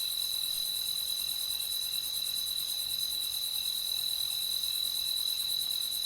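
Crickets chirping in a continuous, fast, even trill with a steady high ring.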